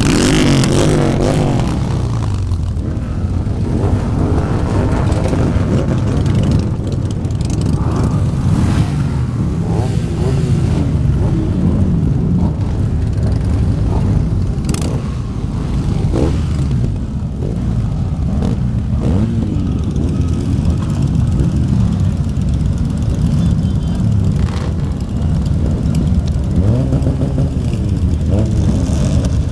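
A convoy of many large-displacement motorcycles riding past, their engines running together with repeated revs rising and falling.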